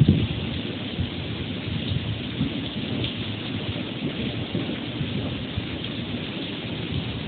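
Heavy typhoon rain and gusting wind: a steady hiss of rain with irregular low rumbling surges.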